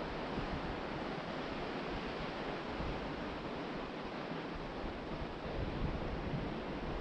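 Ocean surf washing onto the beach in a steady hiss, with wind buffeting the microphone; the low rumble of the wind eases in the middle and picks up again near the end.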